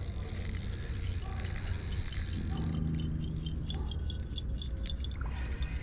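Small Okuma 1000-series spinning reel clicking in quick, uneven ticks while a big gar pulls against the line, over a steady low rumble.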